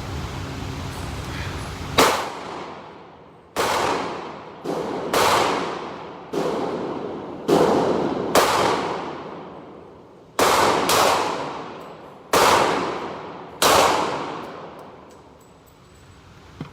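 A string of about eleven gunshots fired at an irregular pace, each ringing out and dying away over a second or so.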